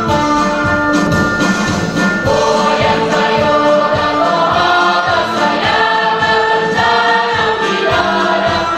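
Choir singing a march song with instrumental accompaniment, voices holding sustained notes over a steady beat.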